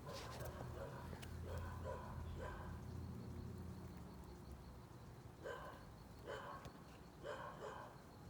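Faint short animal calls, several in quick groups, over a low steady rumble that fades out about halfway through.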